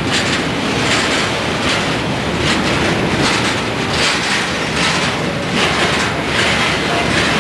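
Freight train of flatcars loaded with steel rolling past at speed: a steady rumble of steel wheels on rail, with regular clacks as the wheels cross rail joints.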